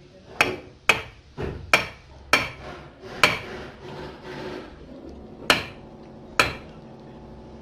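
Sharp metal knocks, about eight at uneven intervals, mostly in the first three seconds with two more later, as a brake master cylinder is knocked and tapped during disassembly.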